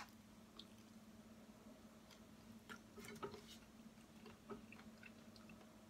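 Faint chewing of a fried chicken wing: a scattering of small, soft wet clicks and smacks, over a low steady hum.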